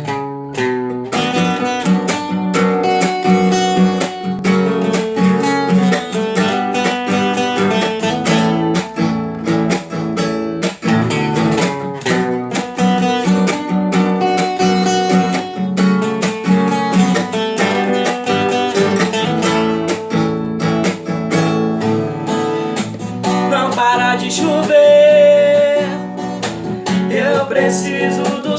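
Acoustic guitar playing a sertanejo song's instrumental intro, strummed and picked in a steady rhythm. A held, gliding melodic note joins briefly near the end.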